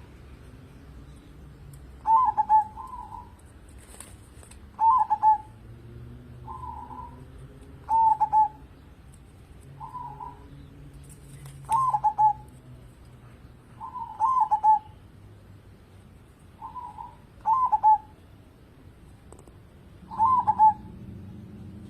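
A local-strain zebra dove (perkutut) singing: its short cooing phrase repeats about every two to three seconds, some phrases fainter than others.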